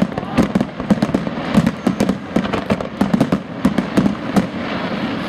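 Aerial firework shells bursting in a dense, irregular run of bangs, several a second, thinning near the end.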